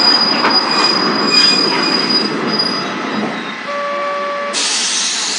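A sightseeing train braking to a stop: rumbling running noise with a thin high steady brake squeal, both dying away about halfway through. A short electronic beep follows, then a sudden loud hiss of compressed air near the end.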